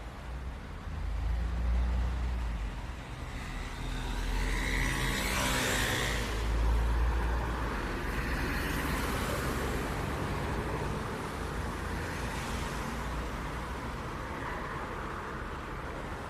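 City street traffic: a steady low rumble of engines with several cars passing close by, their tyre and engine noise swelling and fading about a third of the way in, around the middle and again later.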